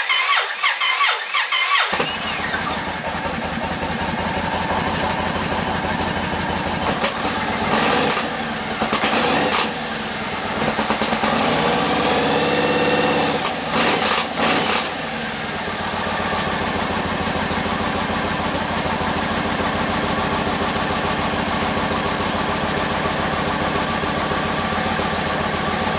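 Yamaha Raider motorcycle engine being cranked on the starter and catching about two seconds in, a hard cold-morning start. It is blipped up and down a few times, then settles into a steady idle.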